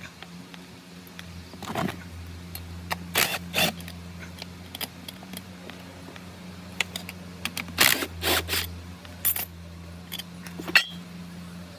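Metal parts and tools clinking and knocking in a series of sharp, irregular strikes, one ringing briefly near the end, over a steady low hum.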